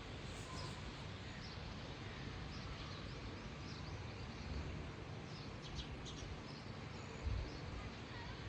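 Steady outdoor background noise with small birds chirping now and then, short high chirps every second or so. A brief low bump comes near the end.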